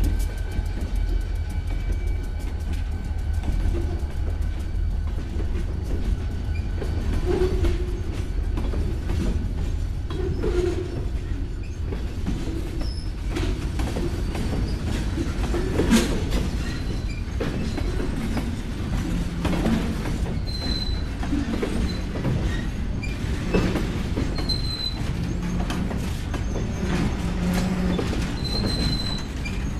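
Freight train passing close by: boxcars rolling over the rails with steady low rumble and repeated wheel clicks, and several brief high-pitched wheel squeals in the second half. A locomotive's steady tones fade out in the first few seconds as it moves away.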